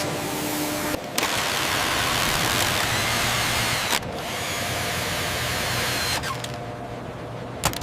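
Power-tool-like whirring noise with a low hum, broken into sections that cut off abruptly about one second and four seconds in.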